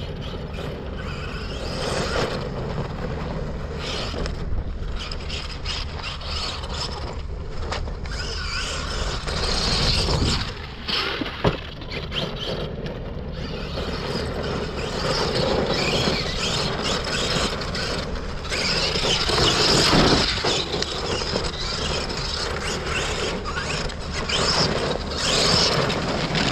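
Arrma Kraton 12S RC car driving hard, its Leopard 700KV brushless motor and drivetrain whining and rising and falling with the throttle. A sharp knock comes about eleven seconds in.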